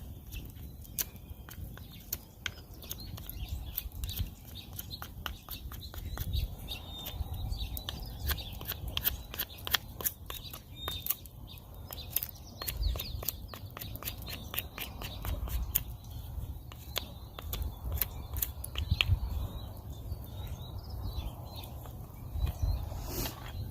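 Small birds chirping in the background, over frequent sharp, irregular clicks and crackles and a low rumble.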